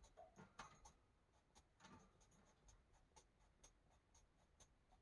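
Faint scratching and tapping of a marker tip on paper: short, irregular strokes, several a second, as small areas of a coloring page are filled in.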